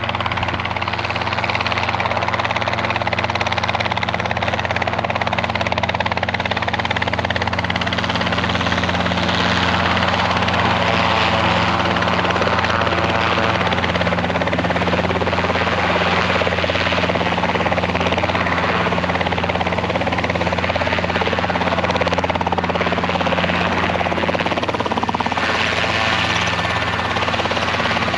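Robinson R22 helicopter running, its engine and rotor making a loud, steady sound that holds unchanged throughout.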